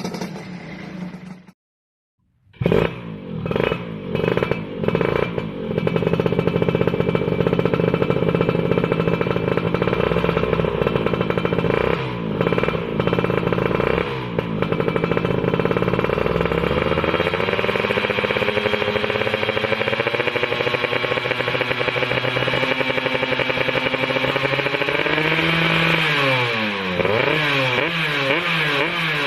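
Yamaha F1ZR two-stroke single-cylinder engine revved through an RTX racing exhaust. After a brief dropout about two seconds in, there are several sharp throttle blips, then longer held revs rising and falling, and quick repeated blips near the end.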